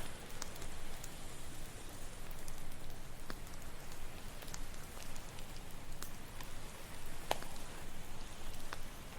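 Campfire crackling, with scattered sharp pops of burning wood, over a steady wash of ocean waves.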